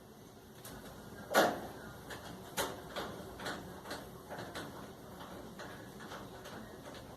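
Knocks and clicks of hard parts being handled: one loud knock about a second and a half in, then lighter clicks and taps roughly every half second.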